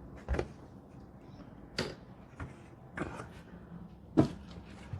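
Supplies being handled and set down: four separate knocks and clunks about a second apart, the last the loudest.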